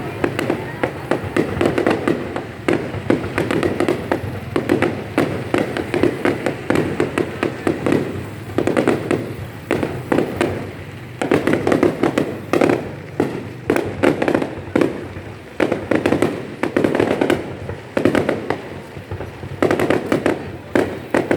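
Fireworks going off in dense volleys of rapid bangs and crackles, with short lulls between the volleys.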